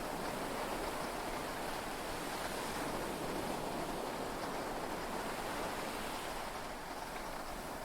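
Steady heavy rain and sea waves washing against a yacht's hull, heard from inside the cabin, as one even rushing noise with no thunder.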